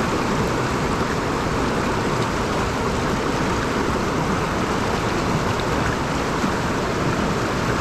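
Rushing water of a mountain stream, a steady, even hiss.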